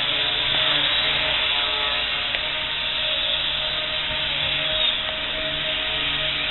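Electric RC helicopter (fixed-pitch, Bell 222 scale body) in flight: the steady whine and hiss of its electric motor and rotor.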